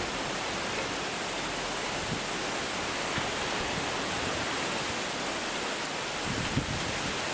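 Typhoon-force wind rushing steadily through bamboo, a continuous even roar of noise. Light wind buffeting on the microphone comes in near the end.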